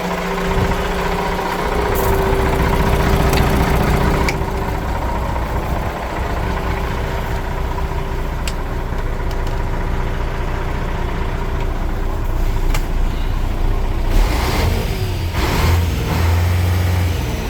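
Iveco 410E42 heavy-duty truck's diesel engine running at idle, with a few sharp clicks, then revving up several times near the end.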